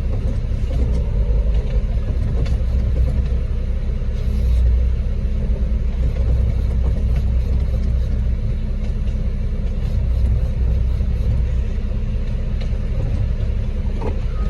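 Concrete mixer truck's diesel engine running at a steady speed with a low rumble while the drum discharges concrete.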